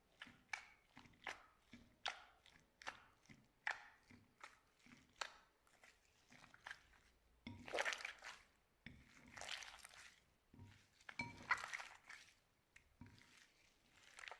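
Slime being pressed and squished by hand: a faint run of short sticky pops, about one or two a second, with two longer, louder squishes midway and a few seconds later.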